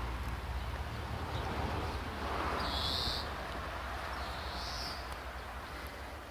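Alfa Romeo 159's 2.4 JTDM five-cylinder diesel engine idling with a steady low hum. A bird outside gives a short high call about every two seconds.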